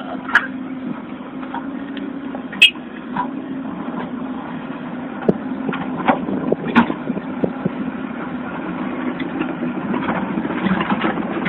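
Heavy machinery engine, likely the excavator's diesel, running steadily, with scattered sharp knocks and clatters over it.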